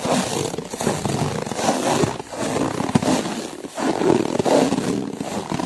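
Footsteps crunching through snow: a slow, even run of crunches, about one every second and a half.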